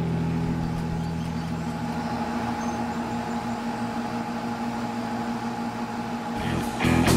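Kenmore air conditioner running after repair: compressor and new condenser fan motor giving a steady electric hum.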